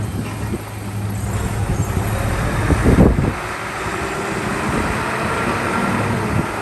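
Heavy diesel earthmoving machinery running steadily, with a brief louder surge about three seconds in.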